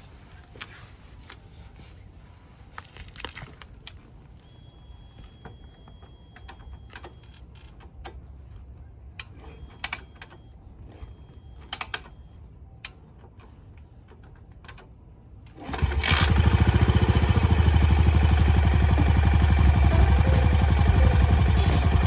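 Faint scattered clicks and taps, then about two thirds of the way in a Yamaha SR400's single-cylinder engine starts suddenly and runs loudly and steadily with a fast, even beat.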